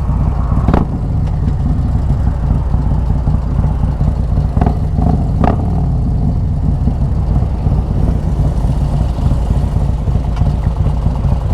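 Stage IV Harley-Davidson Road Glide's 128 cubic-inch V-twin running steadily at low revs through a Khrome Werks 2-into-1 exhaust, with a few brief clicks along the way.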